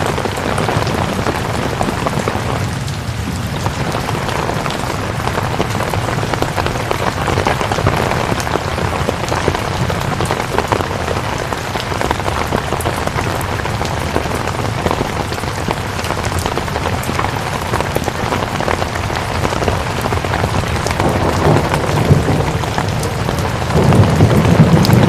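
Steady, heavy rain falling with a dense patter of drops. A low rumble swells in near the end and is the loudest part.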